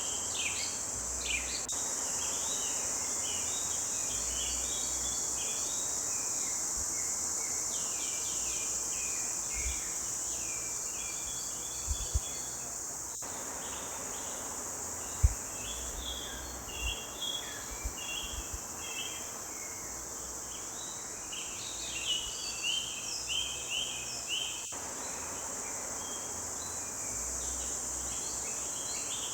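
Forest birds chirping and singing in quick, overlapping phrases over a steady high-pitched insect drone. A few low thumps stand out, the loudest about halfway through.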